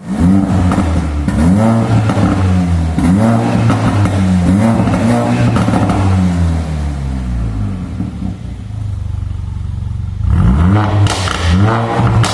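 Mercedes-AMG A45's turbocharged four-cylinder engine blipped repeatedly through an MYS aftermarket valved exhaust, with short revs about once a second. It settles to a steady idle for a couple of seconds, and the revving starts again near the end.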